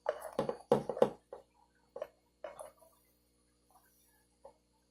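A handful of short knocks and rustles, bunched in the first second, then a few single ones and a faint last one near the end.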